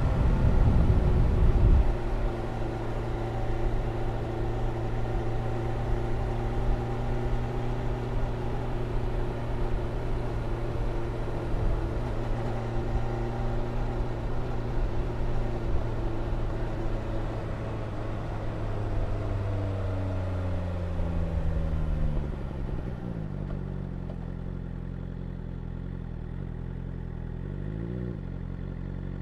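BMW S1000R's inline-four engine running at a steady speed. About two-thirds of the way in it winds down with a falling pitch and settles to a low idle, with one short rise and fall in pitch near the end.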